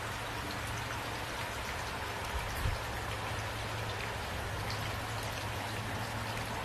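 Steady rainfall, with separate drops heard against the wash and a low steady hum underneath. There is one short low thump about two and a half seconds in.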